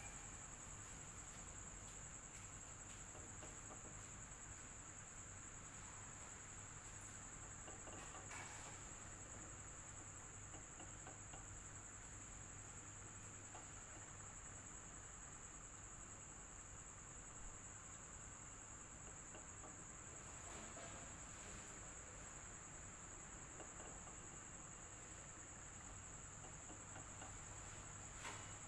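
Electric fan running with a quiet, steady hum and airy hiss, with a constant high-pitched tone over it.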